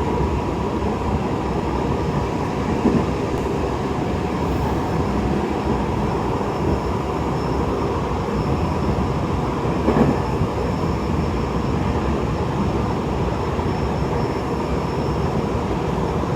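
Cabin noise of a Tokyo Metro 7000-series electric train running between stations: a steady low rumble of wheels on rail, with two short knocks about 3 s and 10 s in.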